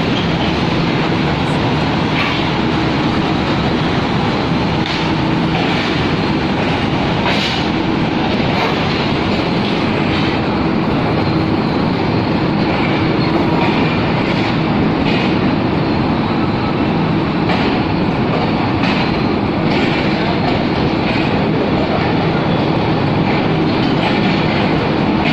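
Passenger train running at speed: a steady rumble of wheels on the rails, with scattered clacks over rail joints.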